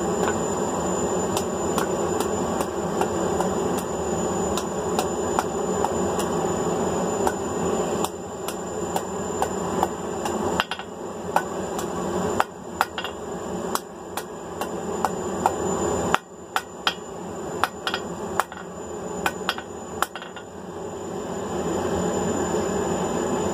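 Hand hammer striking hot 3/8-inch round mild steel on an anvil in irregular runs of sharp, ringing blows while a hook is forged. A forge runs underneath with a steady rushing noise.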